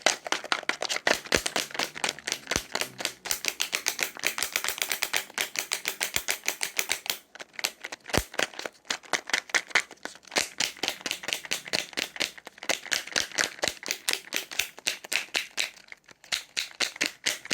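Rapid, even tapping clicks, about seven a second, pausing briefly about seven seconds in and again near the end.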